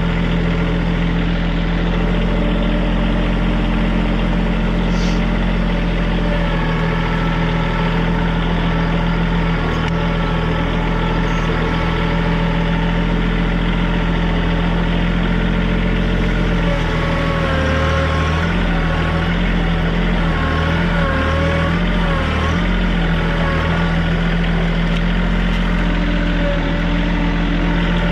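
TYM compact tractor's diesel engine running steadily, its pitch wavering and dipping for several seconds in the second half.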